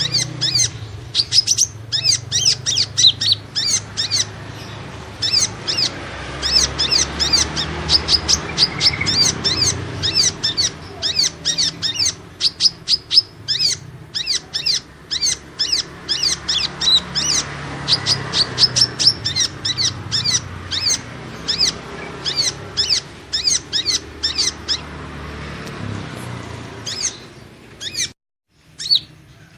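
Kolibri ninja (a small sunbird) lure call: rapid runs of short, high twittering chirps, several a second, broken by short pauses. Near the end it cuts out completely for a moment and then starts again.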